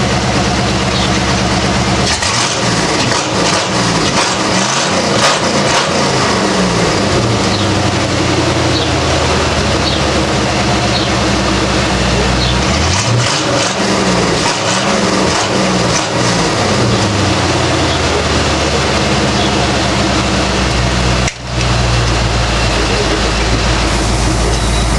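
1995 Ford Mustang GT's 5.0-litre V8, breathing through BBK headers and a Saleen Borla exhaust, idling cold and revved repeatedly in two spells, a couple of seconds in and again around the middle. The sound briefly drops out a few seconds before the end.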